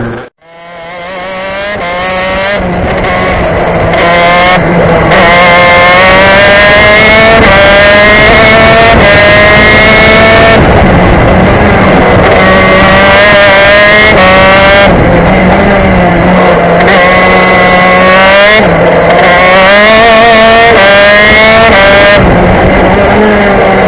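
KZ shifter kart's 125 cc two-stroke engine running at high revs. It climbs in pitch again and again, with sudden drops at each gear change and off-throttle dips. It fades in over the first few seconds.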